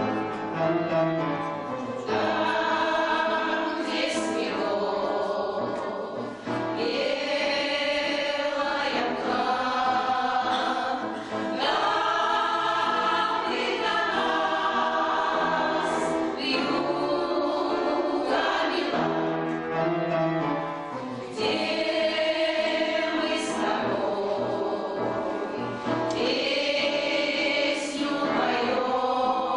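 A choir of older amateur singers sings a song in phrases over instrumental accompaniment.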